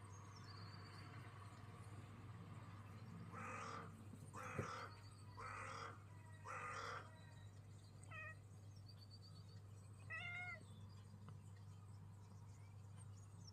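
A domestic cat calling at birds: four harsh calls about a second apart, then two short, wavering meows. Faint, high bird chirps come in between.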